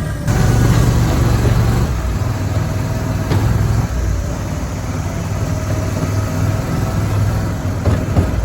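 Snapper Trail Cruiser utility vehicle's engine running as it is driven, with a few sharp knocks and rattles partway through.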